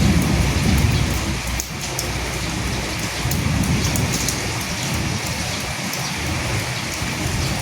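Steady heavy rain falling, an even hiss with scattered sharp drop ticks. A low rumble swells under it near the start and again about three seconds in.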